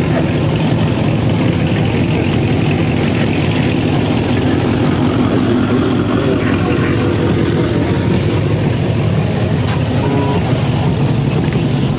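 A car engine idling steadily, a low even exhaust rumble.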